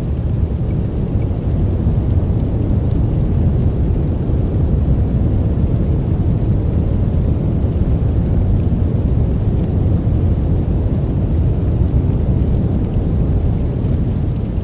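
Steady, deep white-noise sleep sound, weighted heavily to the bass like brown noise. It carries no pitch, no strikes and no changes in level.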